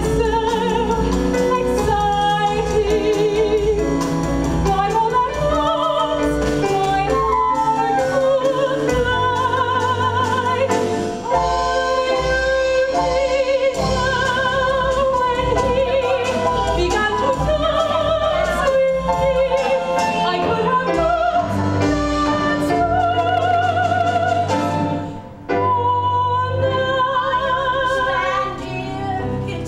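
A stage musical number: a woman sings in a full operatic style with wide vibrato over orchestral accompaniment. The music dips briefly about 25 seconds in.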